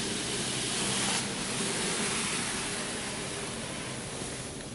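Touchless PDQ Laserwash 360 Plus gantry arm spraying pre-soak solution onto the car, a steady hiss of spray heard from inside the cabin, a little louder about a second in and easing off toward the end.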